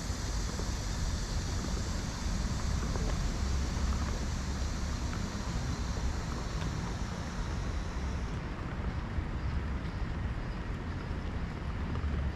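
Outdoor city-park ambience: wind rumbling on the microphone under a steady general hiss, with a higher hiss that drops away suddenly about eight seconds in.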